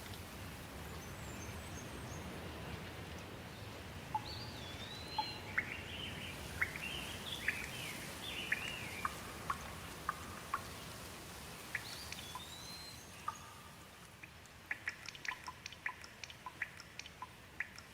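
Light rain falling steadily, with a bird singing swooping whistled phrases over it. Toward the end the rain thins and a quick run of short sharp clicks or drips comes in.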